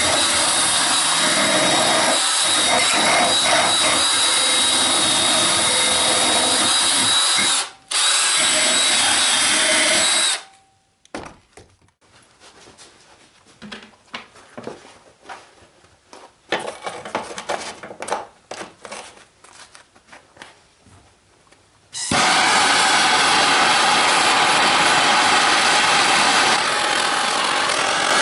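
A handheld power tool runs steadily with a thin whine. It stops briefly about 8 seconds in and stops again at about 10 seconds, followed by a stretch of quiet handling clicks and scrapes. A loud steady motor noise then starts again at about 22 seconds.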